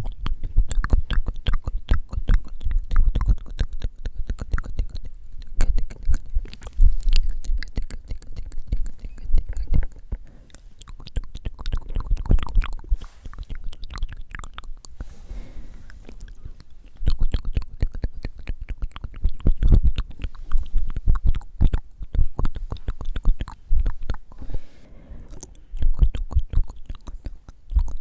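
Close-miked ASMR mouth sounds: rapid, wet lip and tongue clicks and smacks. Breathy blowing into the microphone comes in now and then.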